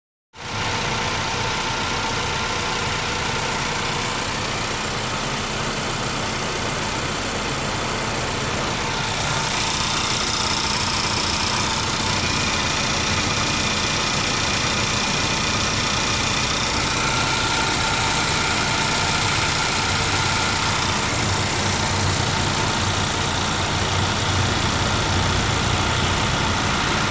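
2013 Honda Accord's 2.4-litre four-cylinder engine idling steadily, with a slight shift in its tone about a third of the way in.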